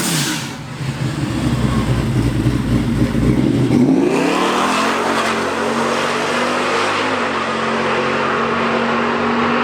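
A V8 drag car's engine rumbling at low revs, then about four seconds in the revs climb sharply and hold at a high steady pitch as the car launches and pulls down the strip.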